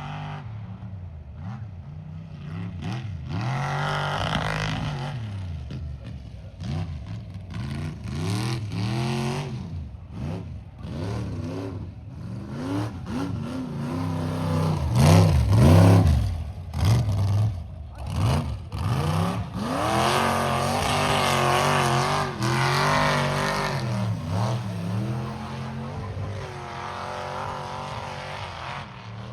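Mega truck engine revving hard again and again, the pitch climbing and dropping with each burst of throttle, loudest about halfway through.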